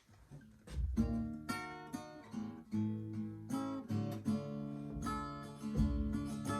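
Acoustic guitar strumming chords in the song's intro, starting about a second in.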